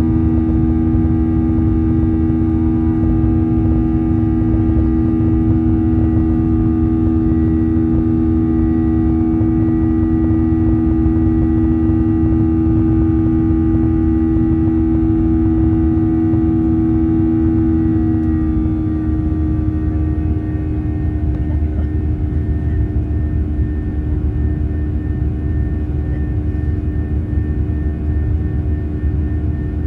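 Jet airliner cabin noise during the climb after takeoff: a steady rush of air with a constant engine hum heard from inside the cabin. About two-thirds of the way through, the engine tone shifts lower and the cabin gets a little quieter.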